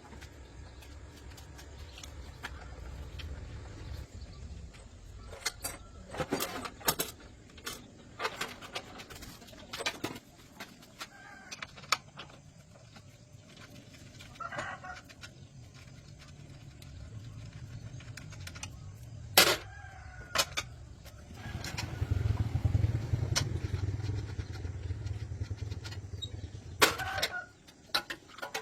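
Chickens clucking and a rooster crowing, among scattered sharp knocks and clanks. A low rumble grows louder for about five seconds near the end.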